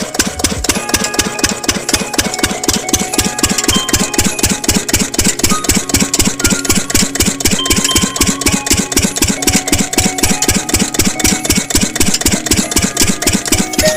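Small diesel engine idling with an even thump, about five beats a second.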